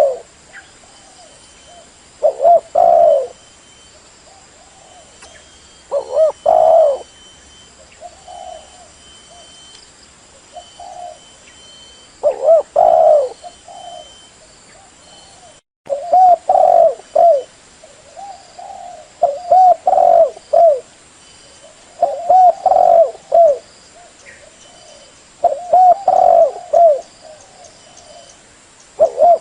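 Female spotted dove cooing, the call used to excite and lure males: short phrases of low coos repeating every two to four seconds. There is a brief break in the sound about midway.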